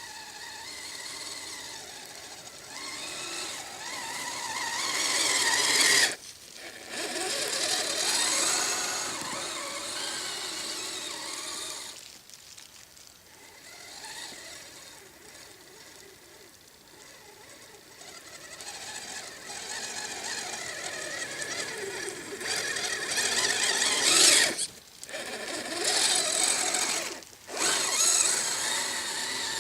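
Electric drive motors and gearing of a Kyosho Blizzard SR radio-controlled snowcat whining as it drives, the pitch rising and falling with the throttle. It cuts off sharply several times when the throttle is let off, once about six seconds in and twice near the end.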